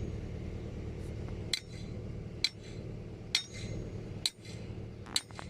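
Hammer striking a metal tool being driven into compacted soil for a field density test, five sharp ringing blows at an even pace of a little under one a second. A steady low rumble runs underneath.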